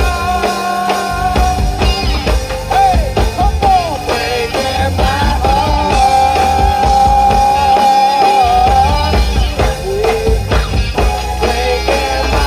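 Rock band playing live: a melodic lead of bent notes and one long held note over bass and drums.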